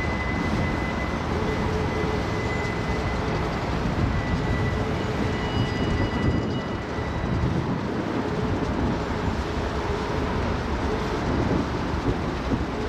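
Freight train rolling past: a steady rumble of wheels on rail. A thin, high, steady tone rides over it and fades out about halfway through.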